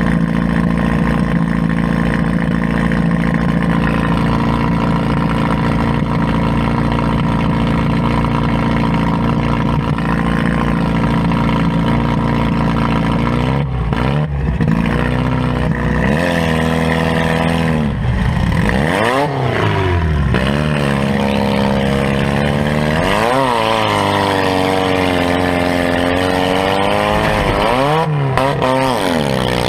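Demolition-derby compact car's engine heard from inside the cab. It runs at steady revs for about the first half, then from about halfway it revs up and drops back repeatedly as the car is driven around the arena.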